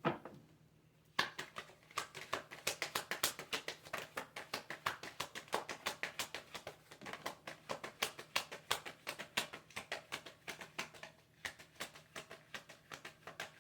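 A deck of tarot cards being shuffled by hand: a quick, uneven run of light card clicks and flicks starting about a second in and thinning out near the end.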